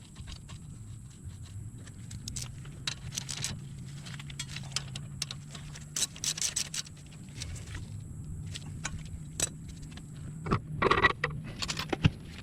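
Metal clinks, taps and scrapes of hand tools and brake hardware being handled while a brake caliper is reinstalled, with a louder metallic rattle near the end. A steady low hum runs underneath.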